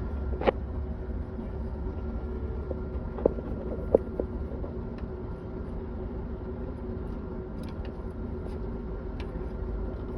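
An engine running steadily, a low rumble with a constant hum, with a few short knocks about half a second, three and four seconds in.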